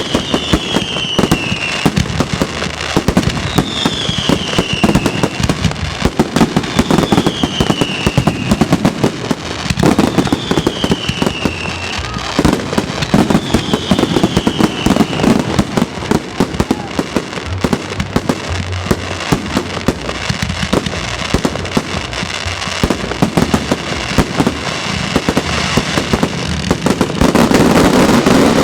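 Fireworks finale barrage: a continuous rapid run of bangs and crackling shell bursts. In the first half a falling whistle repeats about every three seconds, and the barrage grows louder and denser near the end.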